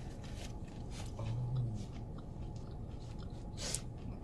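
A person chewing food close to the microphone, with scattered wet mouth clicks and smacks and a brief low hum just over a second in.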